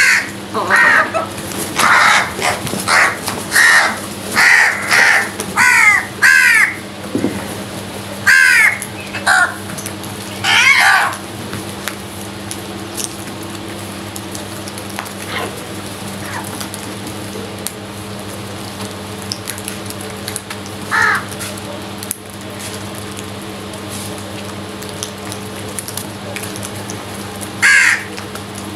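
Crows cawing: a rapid series of harsh caws for the first ten seconds or so, then quieter with only two single caws later on, over a steady low hum.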